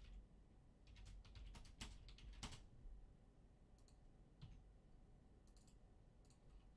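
Faint clicks at a computer: a quick run of clicks between one and two and a half seconds in, then a few scattered single clicks, as the team list is randomized.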